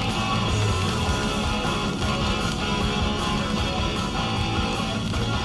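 Rock music with strummed electric guitar playing on a car radio.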